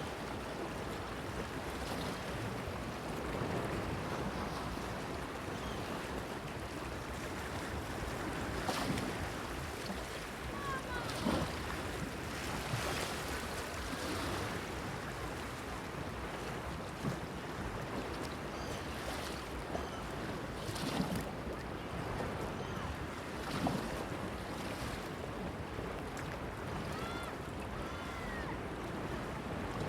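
Sea water washing and lapping against a stone harbour mole, with a steady wash of surf and light wind and occasional sharper splashes. A few faint short chirps can be heard now and then.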